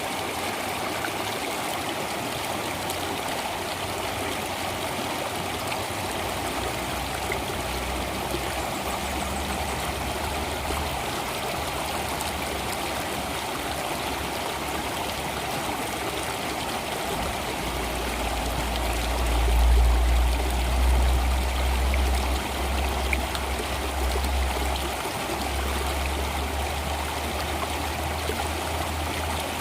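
Stream water flowing steadily with a constant rushing trickle, under a low rumble that swells about two-thirds of the way through and then eases.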